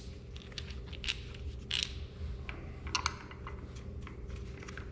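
Small steel engine parts clinking as a spacer and bolt are handled and fitted onto the crankshaft nose: a few sharp metallic clinks, two of them ringing briefly, over a steady low hum.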